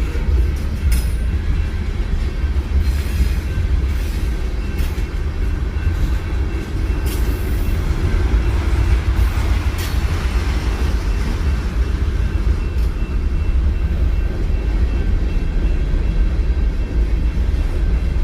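Train rolling past: a steady, heavy low rumble of the railcars with scattered clanks and clicks from the wheels and couplings.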